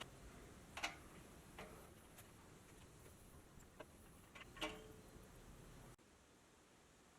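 Faint, scattered light clicks and taps, about six of them over the first five seconds, against low background hiss that drops away suddenly about six seconds in.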